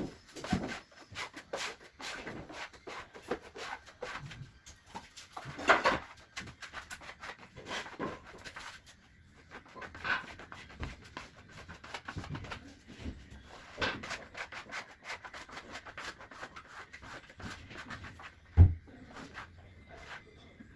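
Hand work on wood: irregular rubbing and scraping with scattered light knocks, and one heavy thump near the end.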